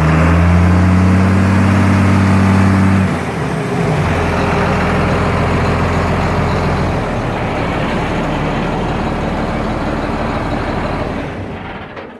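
1978 John Deere 8430 4x4 tractor's turbocharged six-cylinder diesel engine running loud, then dropping to a lower, quieter run about three seconds in. The sound dies away near the end.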